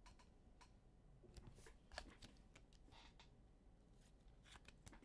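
Near silence, with a few faint scattered clicks and short rustles of small objects being handled.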